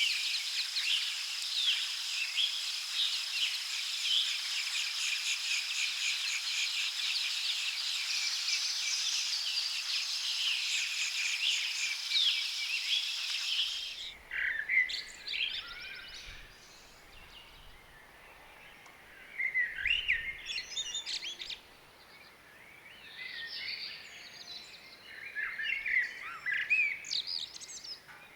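Forest birds singing: a dense chorus of many chirping birds over a steady high buzz, which changes abruptly about halfway through to sparse, separate bird calls and chirps against a quieter background.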